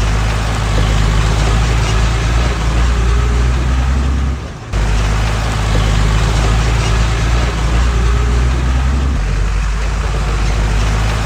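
Heavy-equipment diesel engine running steadily under load, with a brief dip in level about four and a half seconds in.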